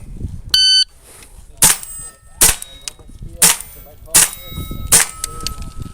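A shot timer beeps once, then five .22 rimfire gunshots follow, under a second apart, each followed by the ringing of a struck steel target.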